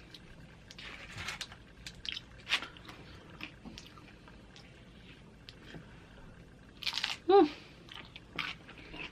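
Close-up chewing and crunching of loaded nachos' tortilla chips, with scattered crisp crunches. About seven seconds in comes a brief voiced sound from the eater, the loudest moment.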